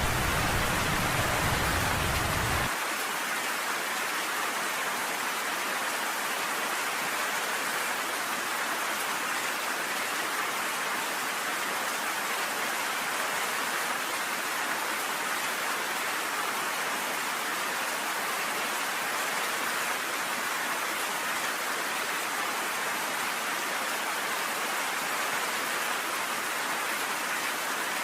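Steady rain hissing evenly. A low thunder rumble underneath cuts off abruptly under three seconds in, leaving only the rain.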